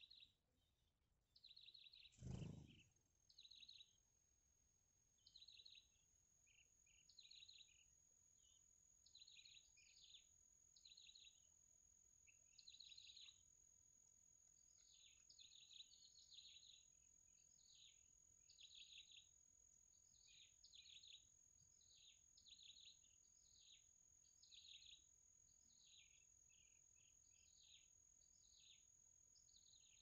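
Small songbird chirping in short, high clusters about once a second. There is a single thump about two seconds in, and a thin steady high whine from then on.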